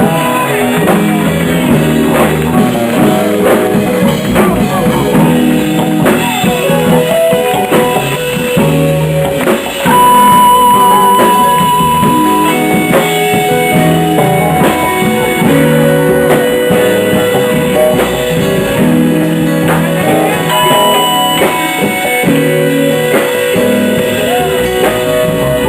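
Live R&B/soul band playing a slow song, with electric guitar and drum kit to the fore. About ten seconds in, a single high note is held steady for a couple of seconds.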